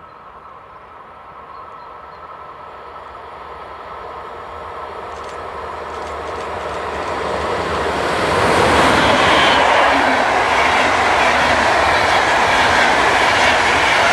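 DB Class 101 electric locomotive hauling passenger coaches, approaching and passing at speed: the running noise of wheels on rails grows steadily louder and stays at its loudest from about eight seconds in as the train goes by.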